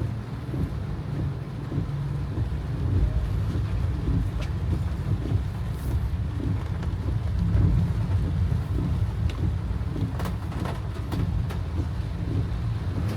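Car driving in rain, a steady low rumble of road and engine noise with a light hiss of rain and a few sharp ticks about ten seconds in.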